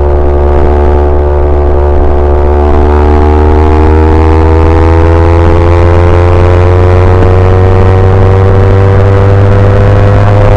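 Yamaha YZF-R25's parallel-twin engine pulling under steady throttle while riding, its pitch climbing slowly and evenly as the revs build.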